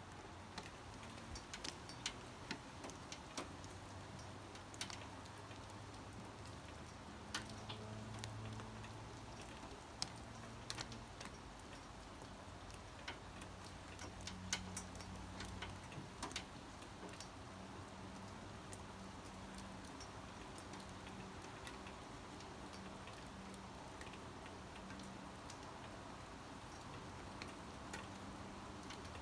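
Raindrops falling and ticking irregularly on a hard surface, dozens of separate drips over a faint steady hiss of rain. A low hum comes and goes in the background.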